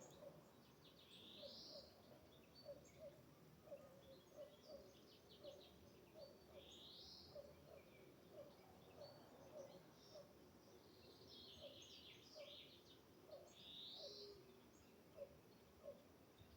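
Faint birdsong: a bird repeats a short trilled phrase that ends in a rising sweep every few seconds, over a running series of short, lower chirps about twice a second.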